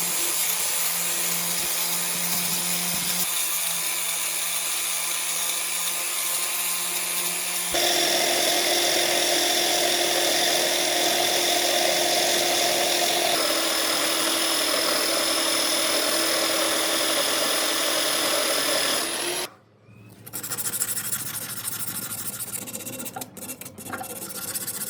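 A power tool running steadily, its tone shifting abruptly a few times. About three-quarters of the way through it cuts out briefly, and a quieter, rougher machine sound with a few clicks follows.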